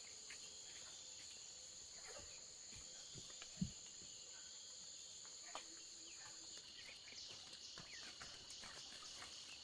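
Faint steady chorus of insects trilling at several high pitches, one of which stops about two-thirds of the way through, with a single soft low thump about three and a half seconds in.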